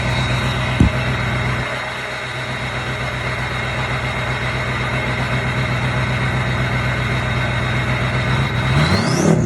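6.0 Powerstroke V8 turbodiesel with a KC stage 1 turbo and 4-inch straight pipe idling, the turbo whistle a steady high tone over the engine. About a second in there is a brief knock, and near the end the engine is revved and the turbo whistle rises steeply as it spools up.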